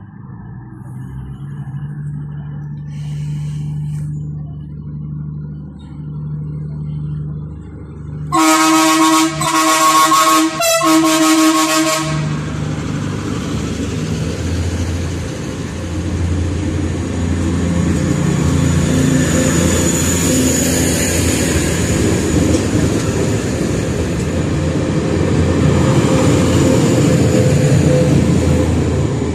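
Diesel train departing: the engine runs steadily at first, then the horn sounds loudly for about four seconds in short blasts, followed by the train's engine and wheels rumbling as it pulls away.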